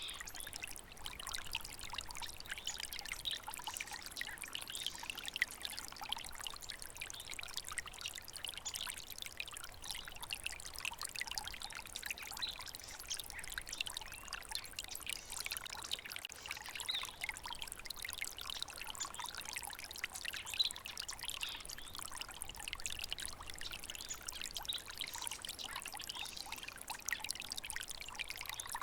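Small stream running over stones, babbling and trickling steadily: a bright, splashy sound with little low rumble.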